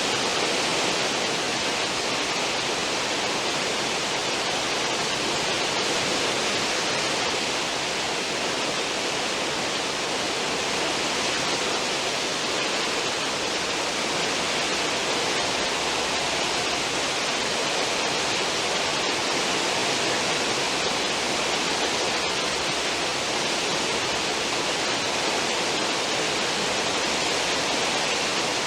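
Cruise ship's stern wake: a steady, unbroken rush of churning, foaming water behind the hull.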